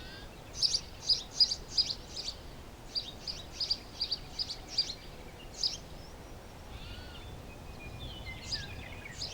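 A small bird chirping, a run of short, sharp high notes about three a second, followed by fainter, softer calls near the end over a low even background noise.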